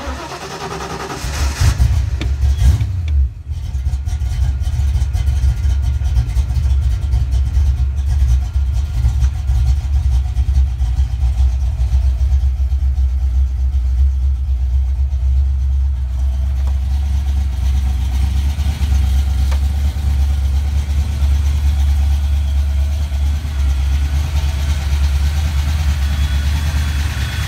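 A Fox Body Mustang's 5.0 L (302) small-block Ford V8 starting up at the beginning, flaring for the first few seconds, then settling into a steady idle around 920 rpm. It is not yet warmed up and runs on a freshly installed Holley Terminator X ECU still being tuned, with the idle deliberately set high.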